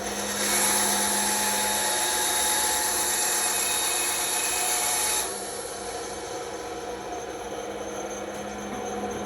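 Bandsaw cutting through wood: the blade's cutting noise is loud for about five seconds, then drops to a quieter cut over the motor's steady hum.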